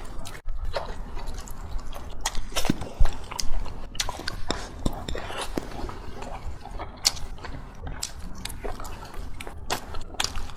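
Close-miked mukbang eating sounds: a person chewing and biting food with irregular wet mouth clicks and smacks, a few a second, the loudest about three seconds in.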